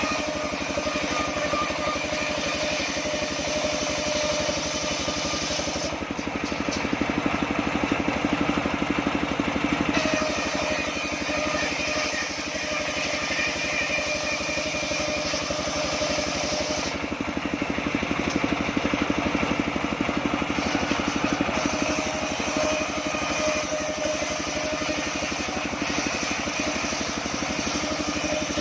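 Homemade engine-driven circular sawmill running steadily, its engine hum constant, with a higher whine that comes and goes several times.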